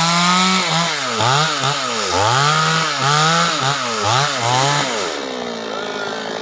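Two-stroke chainsaw cutting wood, its engine pitch dipping and recovering over and over as the chain bogs under load. About five seconds in it settles to a steadier, lower-pitched running as the throttle is eased off.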